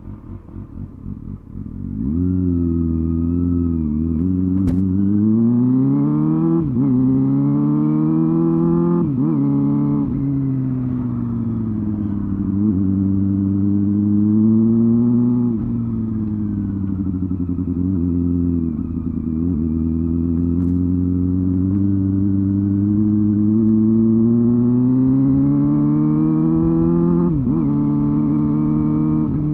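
Honda Hornet 250's inline-four engine and exhaust under riding. It runs quietly for about two seconds, then pulls away, its pitch climbing and dropping back sharply again and again as it works up and down through the gears.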